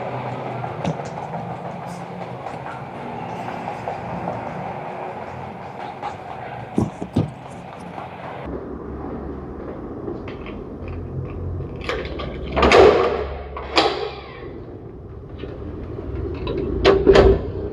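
Harley-Davidson Dyna's V-twin engine running on the road, with a sudden change in the sound about eight seconds in and louder swells, such as throttle openings, near 13 and 17 seconds.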